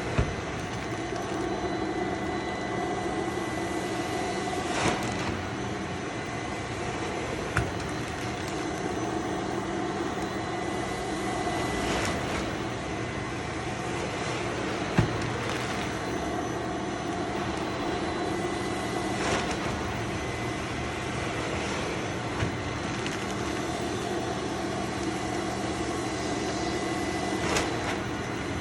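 Steady machinery running with a constant hum and a faint high whine, broken by single sharp knocks or clacks every few seconds.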